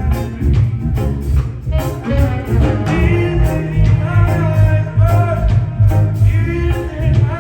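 Live reggae band playing, with a heavy bass line and drums under a pitched melody line.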